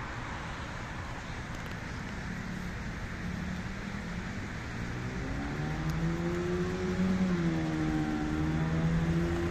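Steady rushing noise of wet-street traffic. From about halfway, a motor vehicle's engine hum grows louder, rises a little in pitch and then holds steady.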